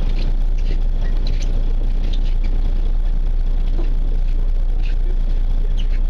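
Fishing boat's engine running steadily as a constant low rumble, with a few light clicks on top.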